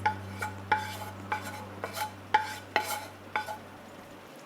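A metal spoon knocking and scraping against a metal pan, a dozen or so ringing clinks about two to three a second, as steamed bitter gourd slices are scooped out into another dish.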